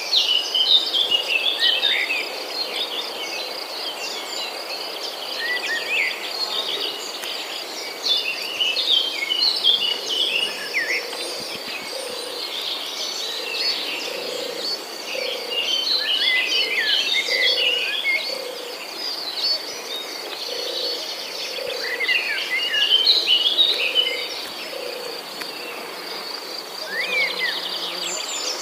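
Small birds chirping and twittering in clusters over a steady, high insect trill, with a low soft note repeating about once a second through the middle.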